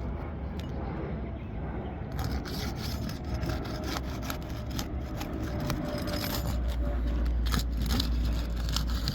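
Asphalt roof shingles being handled and lifted: scraping and rubbing with irregular clicks, starting about two seconds in, over a steady low rumble that grows louder near the end.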